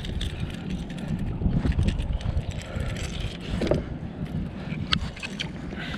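Wind buffeting the microphone on a kayak, a steady low rumble, with scattered small clicks and knocks.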